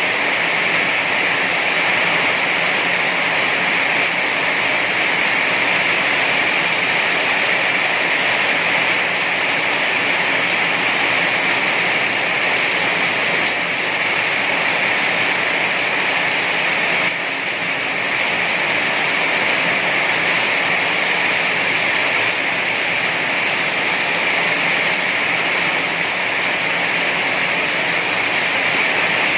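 Heavy rain falling in a steady, even hiss, with a slight brief drop in level about seventeen seconds in.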